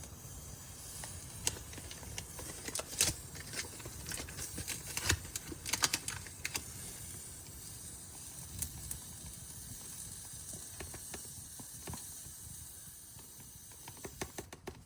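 Irregular clicks and light rustling from a coffee bag and a spoon as ground coffee is measured into a coffee pot. The clicks come in clusters in the middle and thin out near the end.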